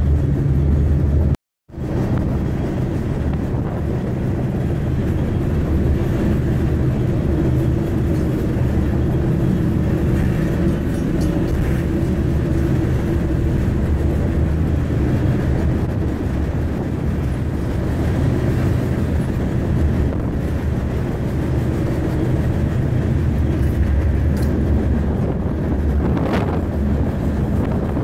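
Freight train rolling, heard by a rider aboard: a steady rumble of wheels on rail with a low hum. The sound cuts out for a moment about a second and a half in, and a short high squeal rises near the end.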